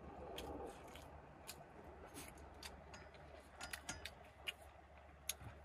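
Faint, scattered light clicks and taps of chopsticks against a bowl while eating, over a low steady hum.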